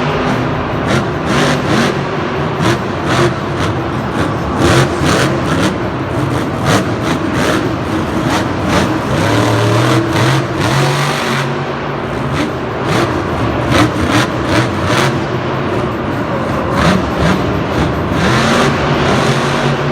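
Vehicle engine revving up and down again and again, with frequent short knocks and clatters.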